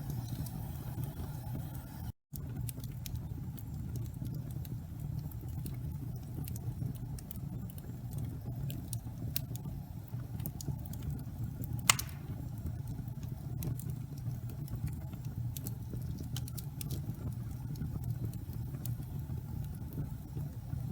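Wood fire burning in a fireplace: a steady low rumble with scattered small crackles, and one sharp pop about twelve seconds in. The sound cuts out for a moment about two seconds in.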